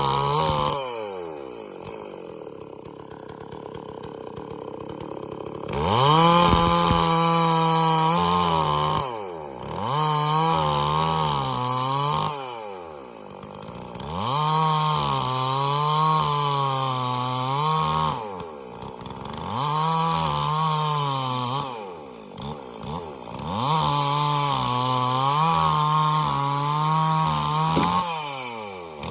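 Stihl MS440 two-stroke chainsaw revving to full throttle in about five bursts of a few seconds each, dropping back to idle between them, its pitch wavering as it cuts into bayur wood.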